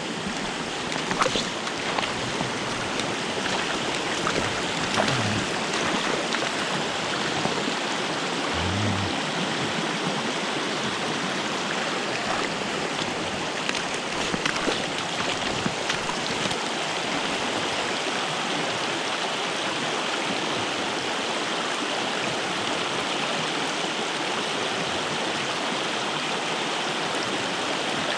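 Steady rushing of a mountain stream's flowing water, with a few faint clicks and a couple of brief low bumps in the first ten seconds.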